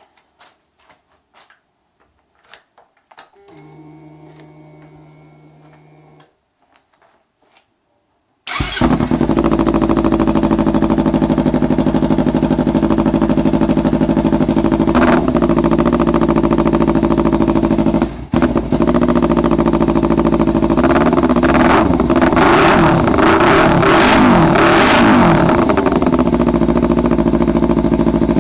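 A few clicks and a short steady hum, then about eight seconds in a Kawasaki Z300's parallel-twin engine starts and idles loudly through an aftermarket SC Project CR-T replica slip-on exhaust. Near the end it is revved several times, the pitch rising and falling.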